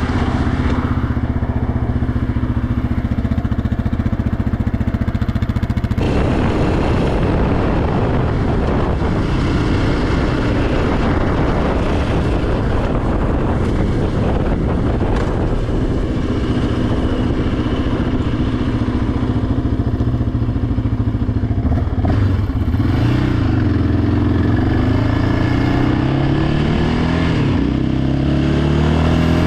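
Yamaha Raptor 700R ATV engine running under way. From about six seconds in it sounds rougher and fuller, and near the end its pitch rises and falls as the throttle changes.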